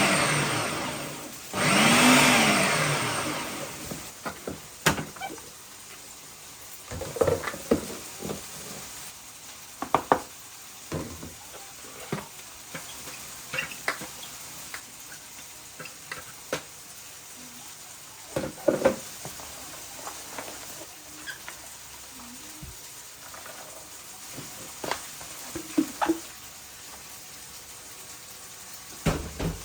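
A small electric kitchen appliance motor, like a blender, run in two short pulses, spinning up and winding down, in the first few seconds. After that come scattered light knocks and clinks of kitchen utensils and containers being handled.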